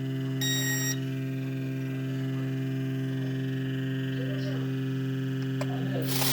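Small quadcopter drone's electric motors running steadily with a pitched hum while powered from a bench power supply instead of its battery. A short electronic beep sounds about half a second in, and a rush of noise swells in near the end.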